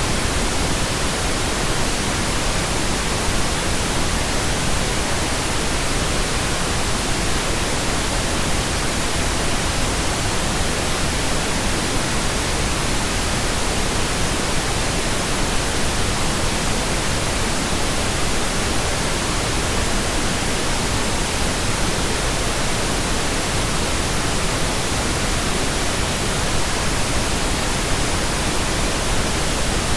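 Steady pink noise generated in Audacity: an even, unchanging hiss across the whole range, with no events.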